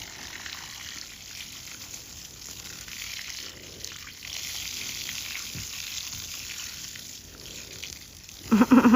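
Water running or spraying steadily with a hissing sound. Near the end there is a brief loud cry.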